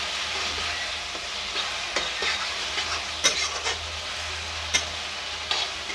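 Grated onion sizzling in hot oil in a metal kadai while a metal spatula stirs it, scraping and clicking against the pan a few times.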